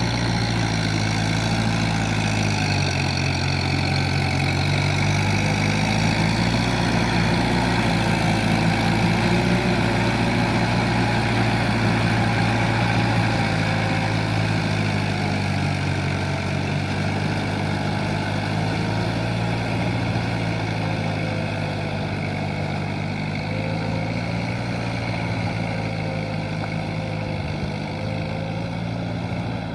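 Kubota M7040SU tractor's diesel engine running steadily under ploughing load, its pitch dipping and rising a little now and then.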